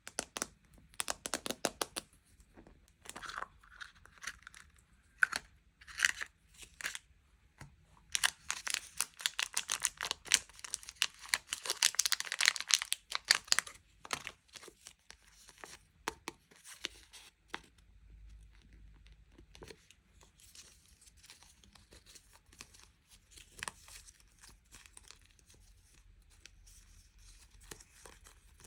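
Sweet packaging being torn open and crinkled by hand, in irregular bursts of rustling, loudest and densest in a long tearing run about a third of the way in, then quieter, scattered crinkling.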